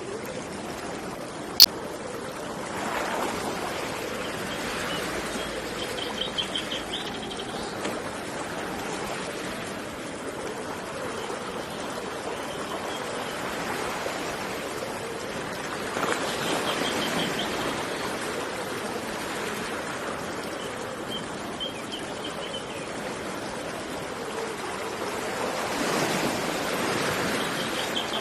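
Steady rush of flowing water, a stream with surf behind it, swelling louder three times. A bird gives a short rapid trill four times, and there is one sharp click about a second and a half in.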